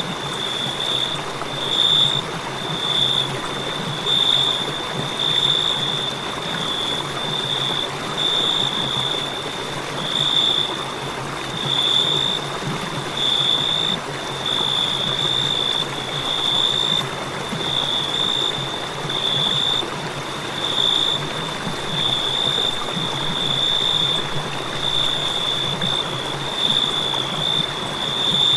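Crickets chirping: a steady high-pitched trill that swells in pulses about once a second, over a constant even hiss.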